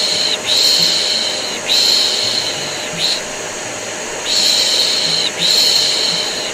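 Rhythmic baby-soothing shushing ('pish pish') in a repeating pattern of three long shushes and one short one, over the steady drone of a vacuum cleaner, as white noise to calm a colicky baby.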